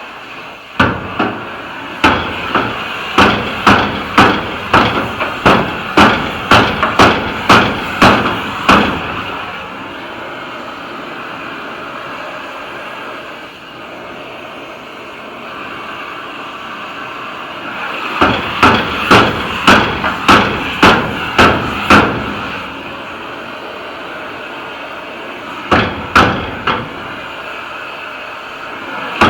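Hammer blows in steady runs of about two strikes a second, each with a short ring: a long run of some eight seconds, a second run after a pause of about nine seconds, and a few blows near the end, over a steady background hiss.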